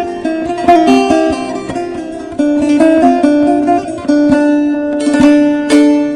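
Instrumental break of a Turkish folk song (türkü), with plucked string instruments playing a quick melody of short picked notes and no singing.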